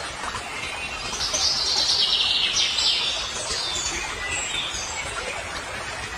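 A bird chirping: a loud, high-pitched run of rapid notes starting about a second in, sliding down in pitch and fading out after about three seconds, over steady outdoor background noise.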